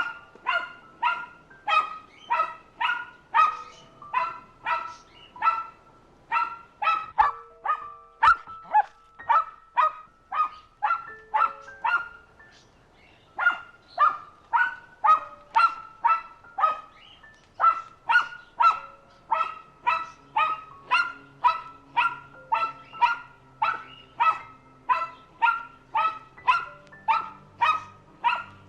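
A dog barking over and over at an even pace, about two barks a second, with a short break partway through.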